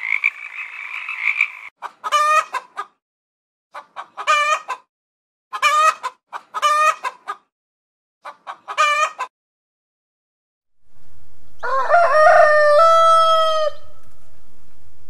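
A toad's trill that stops just after the start, then a hen clucking in five short bursts, then a rooster crowing once, about two seconds long, near the end.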